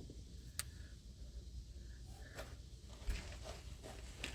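Faint, scattered clicks and light handling noises from working with PEX pipe and hand tools.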